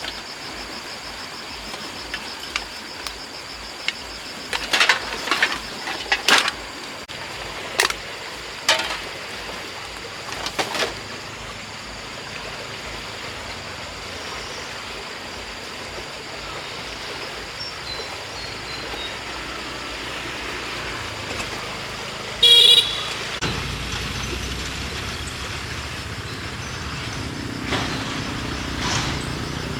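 Scattered knocks and clatters, then a short vehicle-horn toot about three-quarters of the way in, followed by a motor vehicle engine running.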